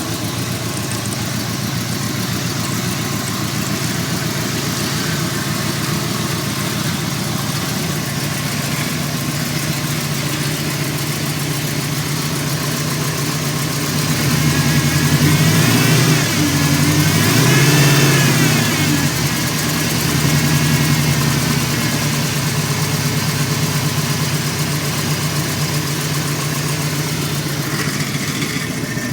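1979 Ford F100's 460 cubic-inch V8, with a Comp Cams 256H cam and Summit open-chamber mufflers, idling steadily. About halfway through it is revved up and back down, with a second, smaller blip just after, then settles back to idle.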